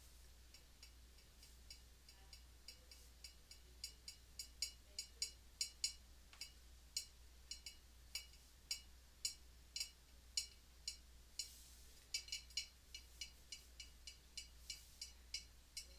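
A series of sharp, high clicks, one to three a second in irregular runs. They start sparsely and grow denser from about four seconds in, with a short lull a little before the end.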